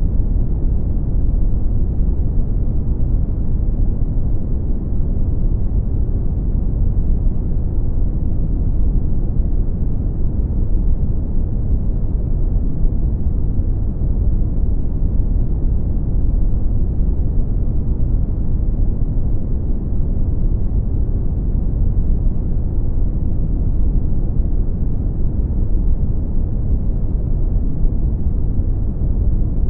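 Brown noise: a steady, deep rumbling hiss, strongest in the bass and fading out above the midrange, at an unchanging level.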